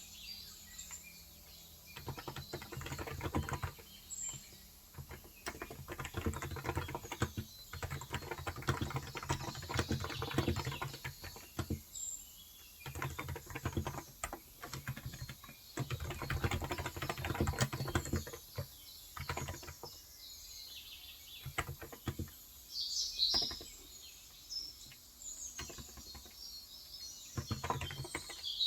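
Typing on a Cox Endeavour electro-capacitive (Topre-style) tenkeyless keyboard with 35 g switches, in runs of quick keystrokes broken by short pauses. Small birds chirp in the background, most busily about three-quarters of the way through.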